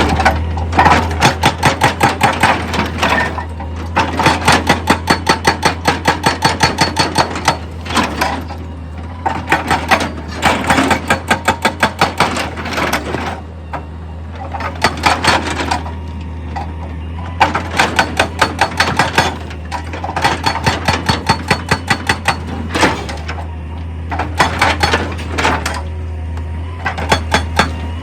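Hydraulic rock breaker on an excavator hammering, fast even strikes at about five a second in runs of a few seconds with short pauses, over the steady low hum of the machine's engine.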